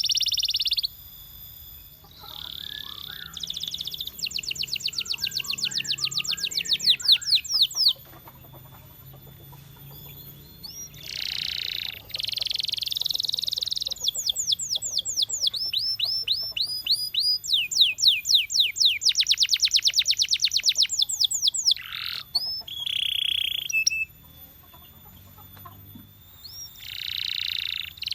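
Domestic canary singing: phrases of fast repeated trills and rolls, broken by short pauses.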